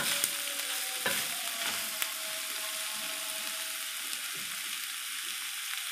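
Chicken, sliced onion and green capsicum strips sizzling in a pan as they are stirred with a spatula, which scrapes and knocks against the pan a few times in the first two seconds.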